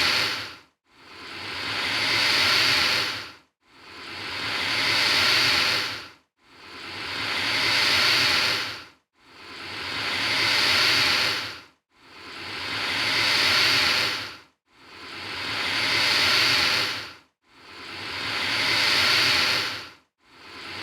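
Alligator hissing: the same breathy hiss over and over, each one swelling in loudness for about two seconds, then cutting off sharply, repeating about every 2.7 seconds with short silent gaps between.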